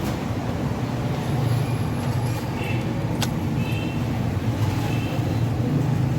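Toyota Belta car engine running at idle while misfiring on cylinder 1 (code P0301), with a steady low hum and a sharp click about three seconds in. The misfire comes from reversed ignition coil wiring, which leaves the coil without current.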